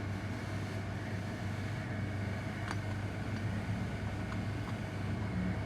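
An engine running steadily at idle with an even low hum and a few faint clicks.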